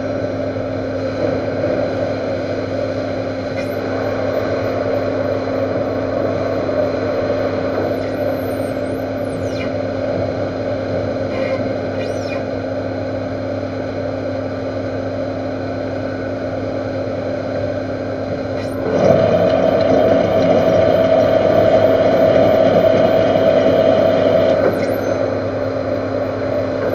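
Metal lathe running steadily with a constant hum. About two-thirds of the way in it grows louder with a steady whine for about five seconds, then drops back.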